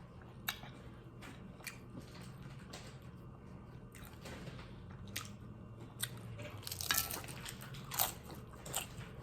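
Close-up eating sounds of a person biting and chewing a taco. Sharp crunches come about once a second, with several close together about seven seconds in.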